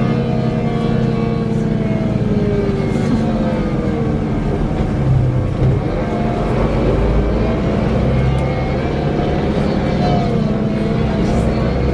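Scania K340 coach running, its engine hum overlaid by a whirring whine that slowly rises and falls in pitch.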